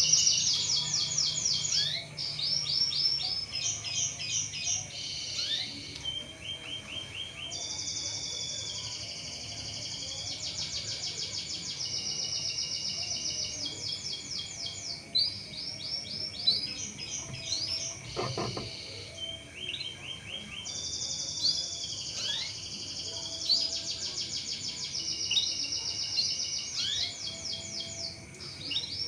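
Domestic canary singing a long, continuous song of rapid trills and rolling repeated notes, with short gliding whistles between the trill phrases.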